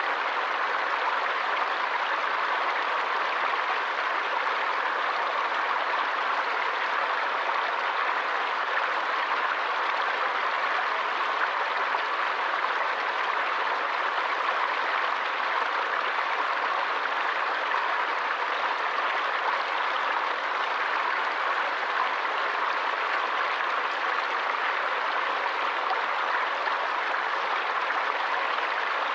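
Forest stream flowing, a steady rushing and splashing of water that does not change.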